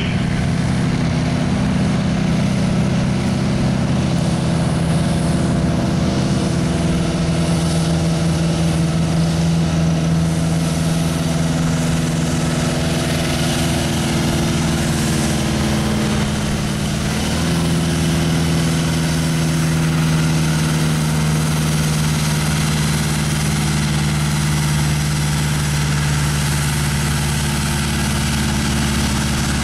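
Farm stock pulling tractor's engine running at a low, steady speed, its note stepping down about seven seconds in and changing again near the middle.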